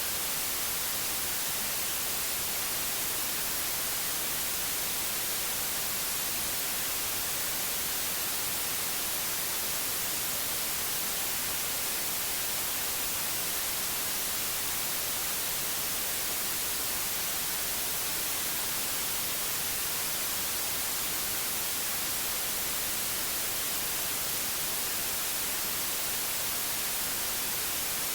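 Gentle white noise: a steady, even hiss, brightest at the high end, with no change in level.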